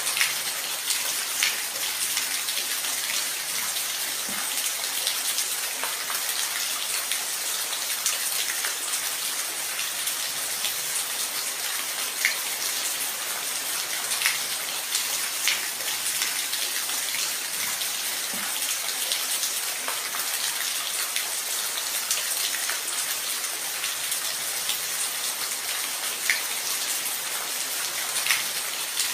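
Steady rain falling, a dense even hiss with scattered sharper drips and ticks of individual drops landing on a surface.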